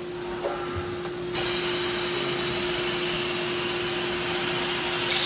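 CNC machine running with a steady hum. About a second in, a loud, even hiss starts suddenly and holds steady.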